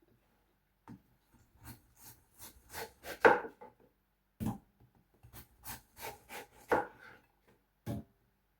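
Kitchen knife cutting watermelon into pieces: an irregular run of cuts and knocks, loudest about three and seven seconds in.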